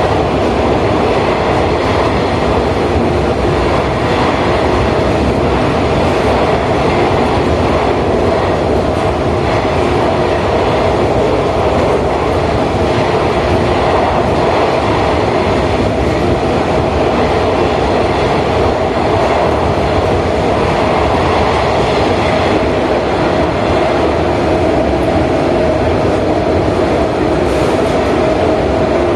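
Interior running noise of a JR 415-series electric multiple unit at steady speed: a loud, even rumble of wheels on rail with a steady tone running through it.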